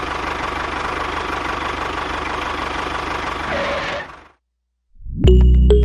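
A motor or engine running steadily, with a faint constant whine over a noisy hum. It fades out about four seconds in, and after a short silence, music starts near the end.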